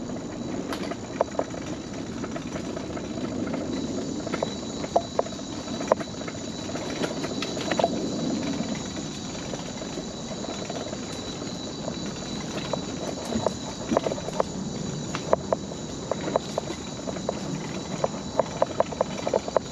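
Mobility scooter rolling along a wooden boardwalk: a steady rumble from the wheels, with irregular clacks as they cross the plank joints, coming quicker near the end.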